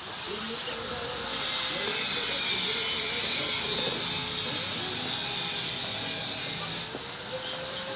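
An electric power tool running with a steady high hiss, louder from about a second in until near seven seconds in, during work on a bird cage.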